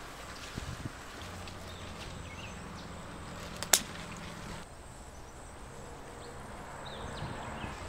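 A single sharp snip of scissors cutting through a peony stem, about three and a half seconds in, over a faint rustle of leaves and steady outdoor background.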